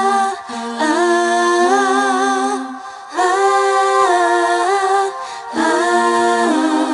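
Wordless female vocal harmony: several voices hum or sing sustained chords, stepping from one held chord to the next in phrases a few seconds long, with brief breaks between them.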